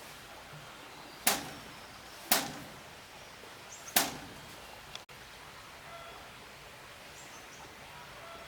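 Three sharp knocks on wood, the second about a second after the first and the third about a second and a half later, each dying away quickly: hammer blows during plank-floor building work.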